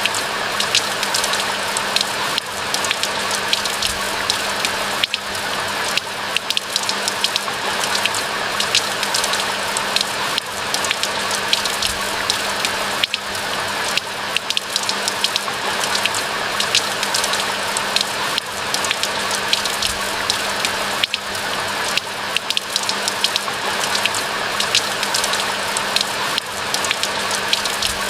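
Steady rain falling: a dense, even hiss with many sharp, close raindrop ticks.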